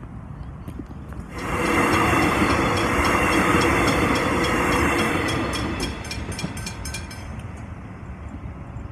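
Suburban electric train passing through a level crossing close by: the wheels rattle and click over the track. It rises suddenly about a second and a half in, stays loud for about four seconds, then eases off.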